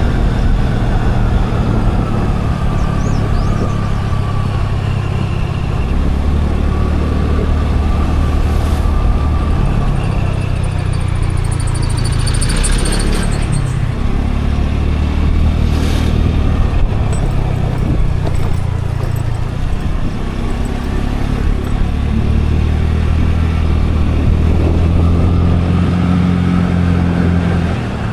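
Scooter engine running steadily under road and wind rumble while riding. A brief high-pitched whine comes about halfway through, and a couple of short knocks.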